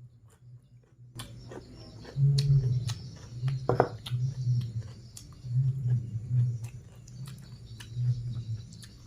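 Close-up eating sounds: chewing and wet mouth clicks near the microphone, with low bursts every second or so.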